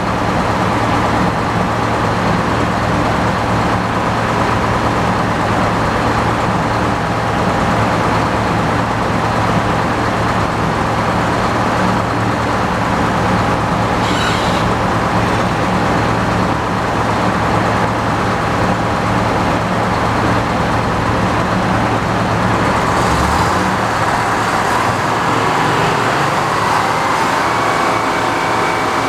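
Tractor engine running steadily under load as it drives the sawmill. About 23 seconds in the engine note changes, and a higher steady whine rises near the end.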